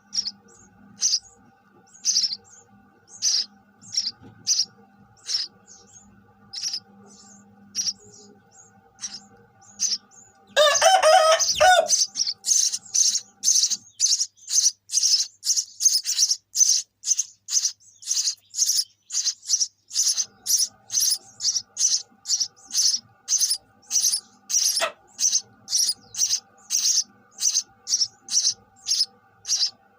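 Sparrow chirping over and over in short, high cheeps, about one a second at first. About ten seconds in comes a loud burst of harsher, denser calling lasting a second or so, and after it the chirps come faster, about two a second.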